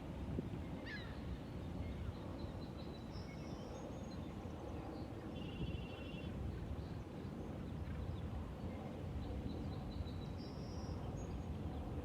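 Small birds calling in short high trills and chirps, a few times over several seconds, above a steady low outdoor noise.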